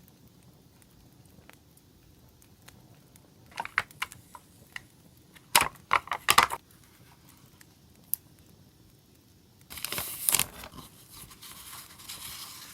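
Paper and plastic stationery packaging handled and crinkled, in short loud bursts about halfway through, then a longer rustling near the end, over faint crackling ticks from a campfire sound track.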